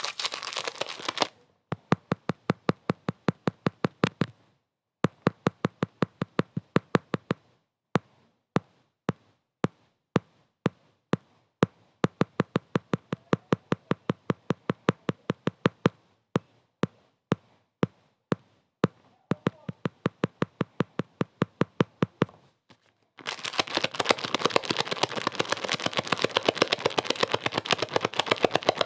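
Rapid, evenly spaced sharp clicks, about five or six a second, in runs broken by short pauses. Dense crackling noise at the start and again from about 23 seconds in.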